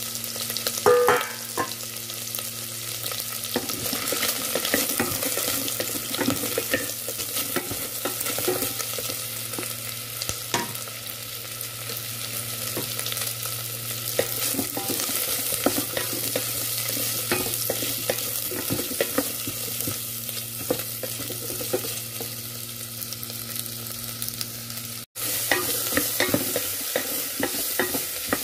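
Garlic, onion and ginger sizzling in sesame oil in a stainless steel Instant Pot inner pot, sautéing until the onion caramelizes. A spatula stirs them, scraping and clicking against the pot's base.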